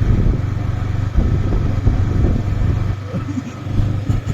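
Yamaha R15M motorcycle on the move, its single-cylinder engine running with a steady low hum under an uneven low rumble.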